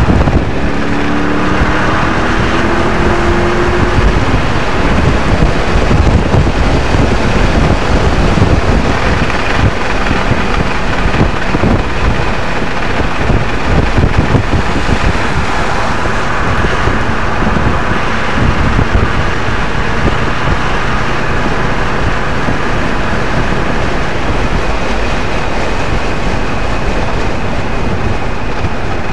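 Audi RS 4's V8 engine at track speed, heard from inside the cabin together with wind and tyre noise; its pitch climbs during the first few seconds as the car accelerates.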